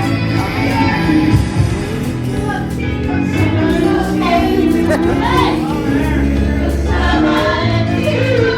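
Karaoke: a backing track playing while people sing along.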